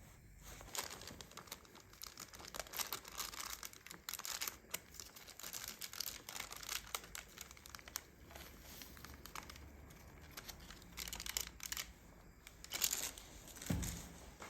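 Irregular crinkling and rustling with many short, sharp clicks, louder in patches.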